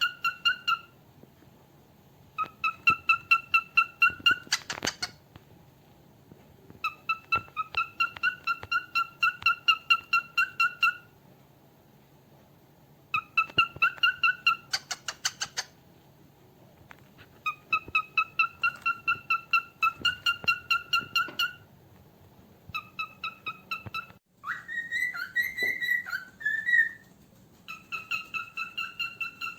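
Cockatiel whistling: phrases of quick, evenly repeated whistled notes, about seven a second on one steady pitch, each phrase lasting one to four seconds with pauses between, and a wavering higher call near the end.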